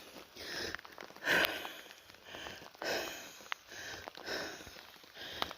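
A person breathing hard through the mouth while walking, a quick breath in or out roughly every three-quarters of a second.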